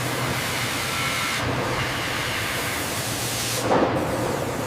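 Steady hissing noise with a faint low hum underneath, swelling briefly about three and a half seconds in.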